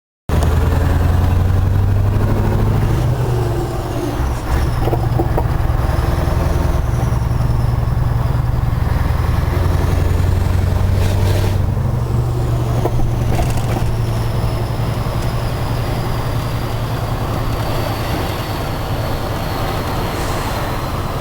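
Scania 143 450 truck's 14-litre V8 diesel running under load. The engine note steps up and down several times, with a few short sharp sounds around two-thirds of the way in.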